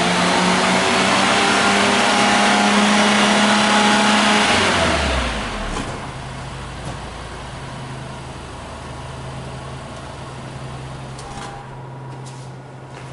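Daihatsu Mira Custom RS's KF three-cylinder engine held at raised revs, then let go about five seconds in, the revs falling back to a steady idle. A few faint clicks near the end.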